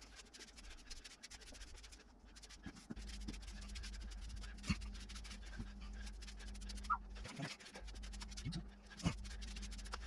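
Faint scrapes and a few sharp knocks of tools and materials being handled and set down, with a short squeak. A steady low hum starts about three seconds in.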